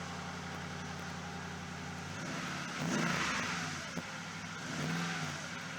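2014 Toyota Tundra pickup's engine idling, then revved twice, about three seconds in and again near the end, each rev rising and falling in pitch. The exhaust note sounds like it comes from an aftermarket exhaust system.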